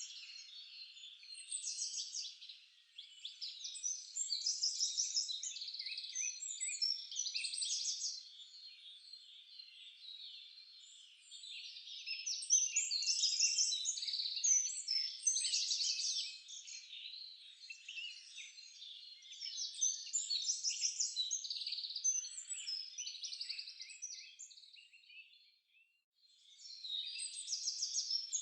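Several forest birds singing at once: overlapping high chirps and fast trills, with a brief lull near the end before the song picks up again.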